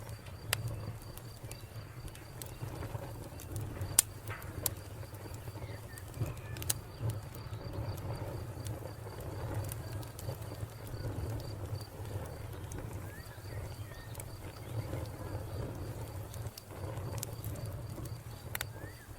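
Wood fire crackling, with scattered sharp pops over a low, steady rumble of flames. A cricket chirps in a fast, even pulse, with faint bird calls now and then.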